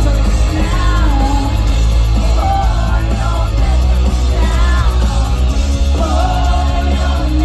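Live rock band playing loudly, a woman singing the melody over heavy bass.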